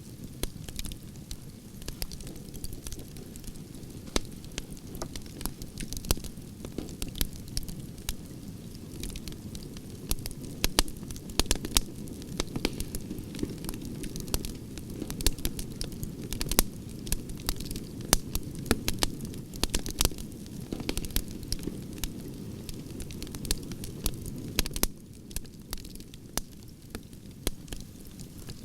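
Wood campfire burning logs, crackling with many irregular sharp pops and snaps over the low, steady rush of the flames. The low rush drops a little near the end.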